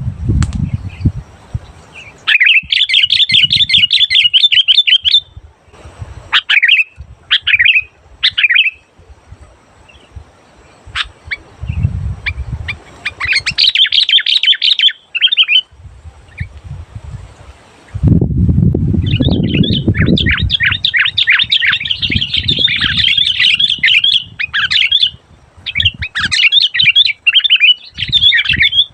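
Sooty-headed bulbuls (kutilang) singing in loud, rapid chattering bursts several seconds long, with shorter phrases between them. A low rumbling noise sits underneath at times, most strongly a little past the middle.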